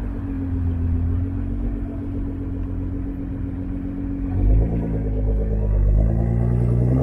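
A car engine running at a steady low, rumbling note. About four and a half seconds in the note changes with a brief swell in loudness, then its pitch starts climbing gradually as the car accelerates.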